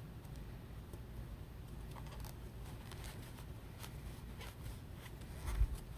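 Faint handling sounds of crochet work: scattered small clicks and light rubbing as a crochet hook pulls yarn through stitches, with a low bump near the end.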